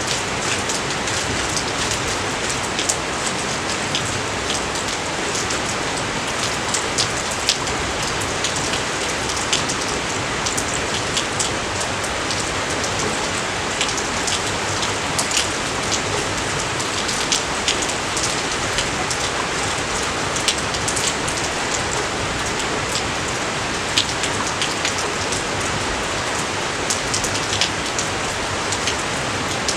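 Steady rain falling, a constant hiss with many sharp, close drop impacts ticking through it.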